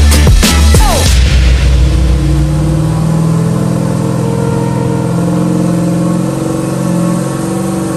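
Music cuts off about a second in, leaving the turbocharged LS V8 in a Honda S2000 running steadily at low engine speed on a chassis dyno, its pitch wavering slightly.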